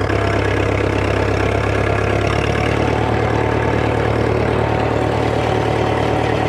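Tractor engine running steadily, its low note shifting slightly about two seconds in.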